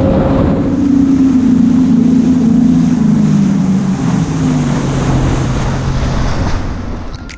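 Jet ski engine running over a steady rush of noise; its pitch falls steadily as it throttles down, then the sound fades near the end before cutting off abruptly.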